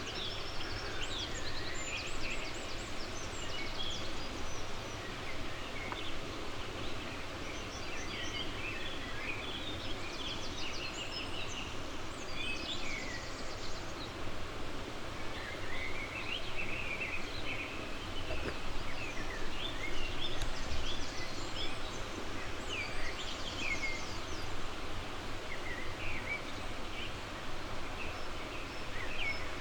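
Several birds singing and calling, with short chirps and rapid trills that keep overlapping, over a steady background rush.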